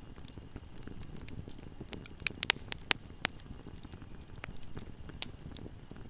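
Wood fire crackling and popping over the low rumble of the flames, with a quick run of louder pops about halfway through.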